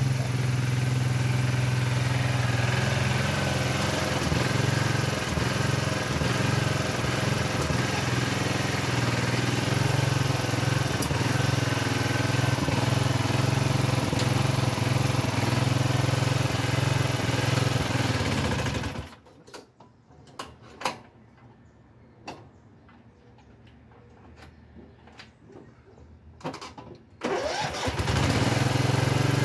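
Small single-cylinder garden tractor engine of a Craftsman loader tractor running steadily, then cutting off suddenly about two-thirds of the way through; a few sharp clicks and knocks follow in the quiet, and the engine is running again near the end.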